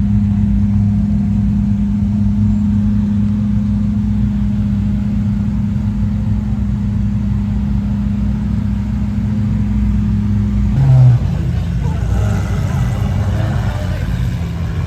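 Car engine running steadily with a low, even hum, then a short sharp rev about eleven seconds in.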